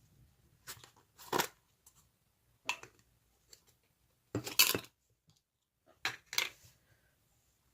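Slime being handled and pressed: about five short, sharp bursts of sticky, popping handling noise with near quiet between them, the loudest a little past the middle.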